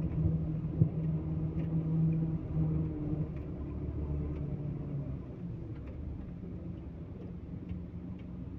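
Heavy diesel engine running steadily with a low hum, easing down about three seconds in and settling to a lower, steady run.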